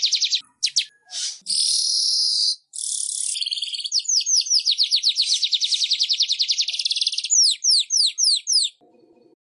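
Weaver bird (manyar) song: a rapid chattering trill, harsh buzzy notes, then a long fast trill of about ten notes a second that slows into a run of separate down-slurred notes, breaking off shortly before the end.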